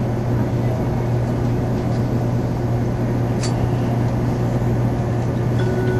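Steady cabin noise of a Tokaido Shinkansen train running at speed: a constant low hum under an even rushing noise. Near the end a few high steady tones begin, stepping in pitch: the start of the onboard chime melody.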